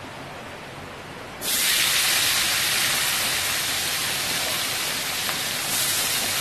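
Red chilies, shallots and garlic dropped into hot oil in a wok, which bursts into loud, steady sizzling about a second and a half in.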